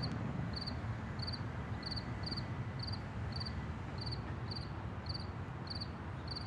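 Crickets chirping in a steady rhythm, about three chirps every two seconds, over a low background rumble.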